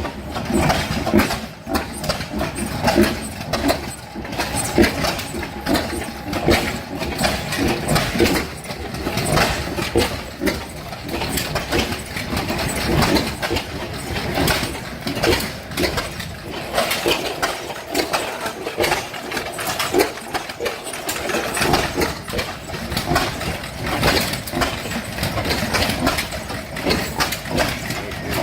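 Old engines running, a dense irregular stream of knocks and pops.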